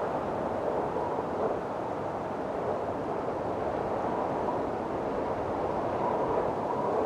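Windstorm: strong wind blowing steadily with a dense rushing sound and faint whistling tones that come and go.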